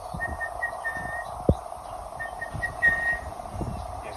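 A man whistling an imitation of the orange-breasted bushshrike's call: a few short notes running into a longer held note, given twice.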